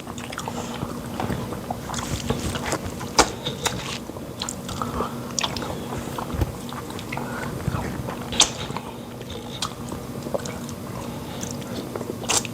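Close-up mouth eating sounds of fufu and pepper soup being eaten: wet chewing and lip smacks with scattered sharp mouth clicks, a few louder ones standing out.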